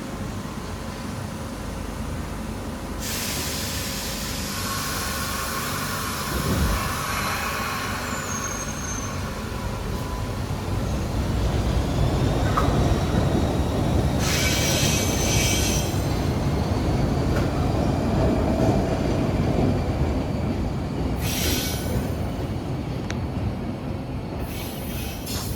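MBTA Red Line subway train running on the rails, its rumble growing louder from about ten seconds in, with several brief high-pitched bursts from the wheels.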